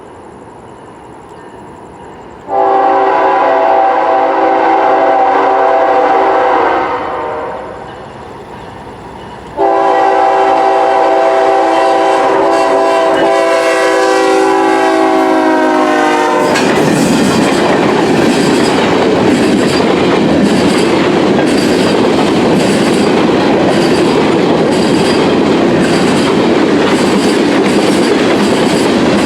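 CSX freight locomotive's multi-chime air horn sounding two long blasts, the second dropping slightly in pitch as it passes. The train then rolls by with a steady rumble of wheels on rail and regular clickety-clack from the rail joints.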